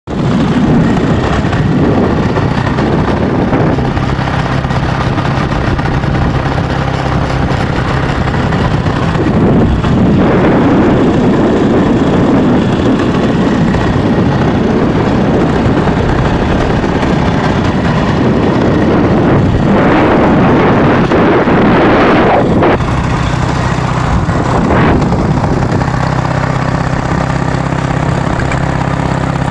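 Dnepr motorcycle's flat-twin engine running throughout. It swells louder and rougher about ten seconds in and again around twenty seconds, then settles to a steadier, even note for the last several seconds.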